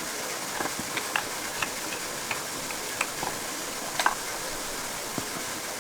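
Light, sharp clicks and taps at irregular moments, about a dozen, over a steady hiss.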